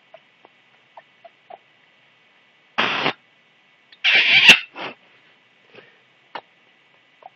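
Pet parrot giving two harsh, noisy screeches about a second apart, the second one longer and louder, with a sharp click in the middle of it.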